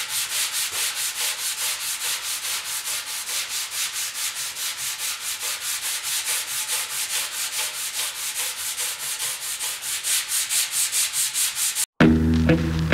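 Hand sanding of a primed steel motorcycle fuel tank with 220-grit sandpaper, quick even back-and-forth scratching strokes cutting down the primer and guide coat. It stops suddenly about twelve seconds in and music begins.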